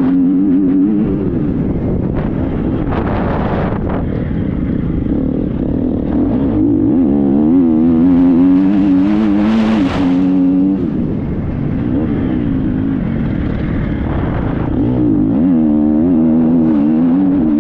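Triumph 250 motocross bike's engine running under riding, its revs rising and falling over and over as the throttle is worked, with a rushing noise underneath.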